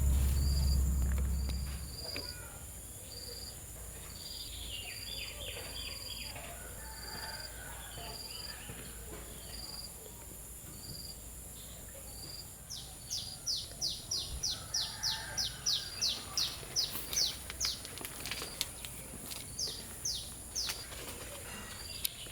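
Birds chirping outdoors: a short high note repeated roughly twice a second, then from about halfway a louder run of quick falling chirps. A low rumble fades out about two seconds in.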